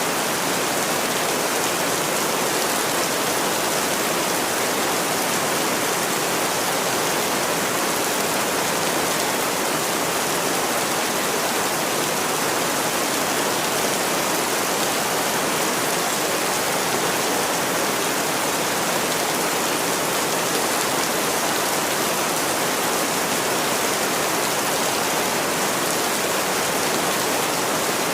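Steady, even rainfall, a dense hiss of drops that holds level throughout.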